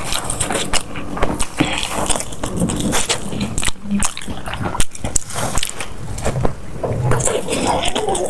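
Close-miked eating sounds: a person chewing with many short, irregular crunching and smacking clicks.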